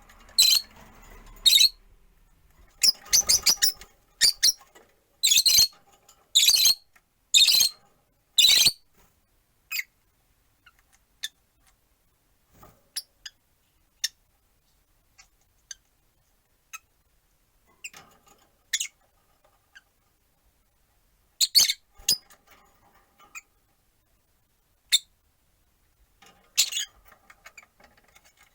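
Peach-faced lovebirds chirping: short, shrill calls, first a run of loud ones about a second apart, then scattered fainter chirps with long pauses between them.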